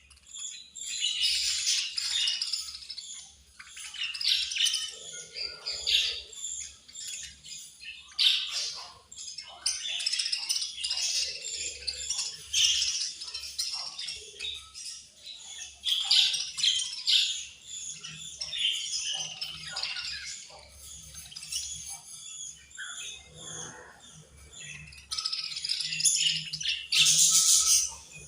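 A flock of budgerigars chattering and chirping continuously in quick, overlapping high calls. A brief, loud noisy burst comes near the end.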